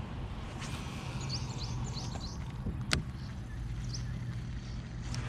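Birds chirping in short quick notes over a steady low rumble, with one sharp click about three seconds in.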